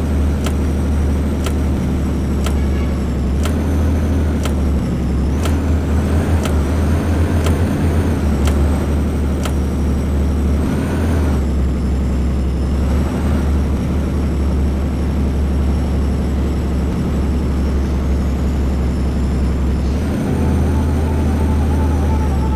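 Blue Bird bus engine running steadily under way, a deep constant drone. Sharp clicks come about once a second through the first half.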